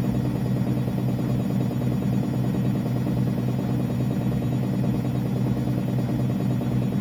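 Whirlpool AWE6316 front-loading washing machine running in its test mode: a steady, even motor hum with no change in pitch or level.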